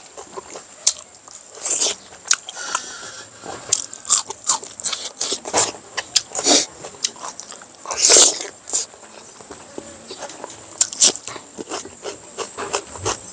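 A person eating close to the microphone: wet chewing and lip smacking with many short mouth clicks. Louder bites or slurps come about 2, 6.5 and 8 seconds in.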